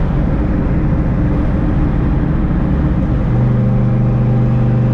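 Twin-turbo Mustang SVT Cobra's V8 running at light load while driving, with a rough exhaust rumble. About three seconds in, the note settles into a steady drone.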